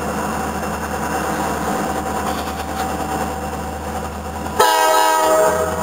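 A train's air horn sounds one short blast of about a second, about four and a half seconds in, over a steady low rumble.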